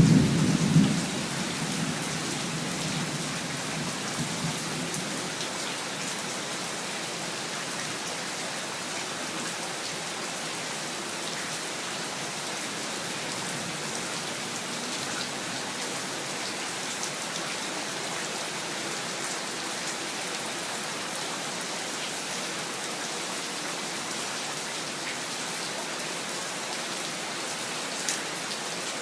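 Steady rain falling on surfaces, with a roll of thunder rumbling at the start that fades away over the first few seconds. One sharp tap stands out near the end.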